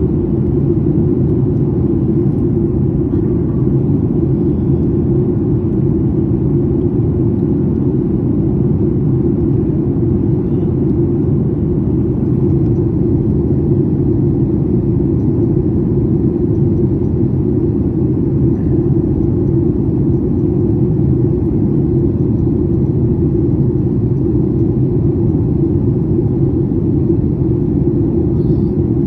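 Steady low rumble of jet engines and rushing air inside a passenger airliner's cabin in flight.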